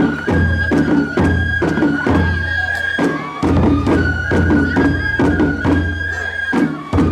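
Japanese festival hayashi music: a high bamboo flute holding long notes over rapid, regular strikes of a small ringing metal gong and the booming of large drums.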